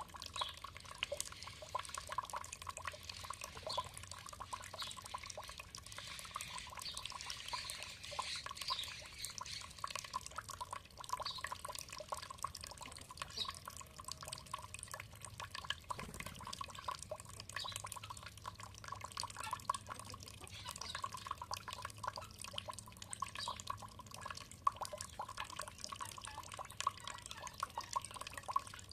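Water trickling and dripping: a steady run of many small drips and splashes close together.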